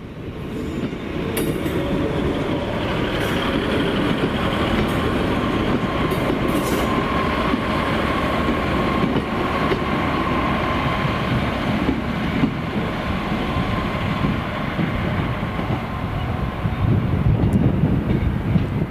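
A train passing close by: the steady running noise of wheels on the rails, with a faint high whine through the middle stretch.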